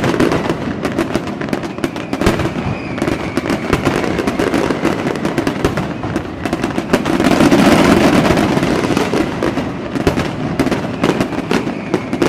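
Fireworks going off in a dense run of pops and crackles, swelling to a louder, fuller barrage about seven seconds in.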